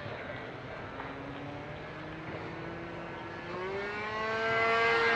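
Gasoline-engine single-propeller RC model airplane flying overhead, its engine giving a steady buzzing drone that grows louder and rises in pitch over the last second and a half as the plane comes closer.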